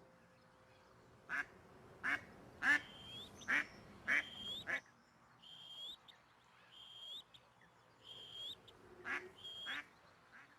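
A duck quacking: a run of about six short calls, then two more near the end. Behind it a small bird repeats a short whistled note about once a second.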